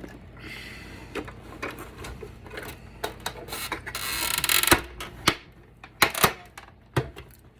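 Clicks and clatter of a battery backup being handled on a tabletop during disassembly. A scraping noise builds for about a second and ends in a loud knock, followed by a few more sharp knocks.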